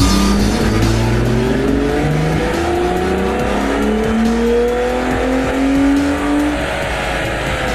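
Stock 2004 Acura 3.5RL's 3.5-litre V6 making a full-throttle pull on a chassis dynamometer, its note climbing steadily in pitch for about six and a half seconds before the run ends and the engine note falls away.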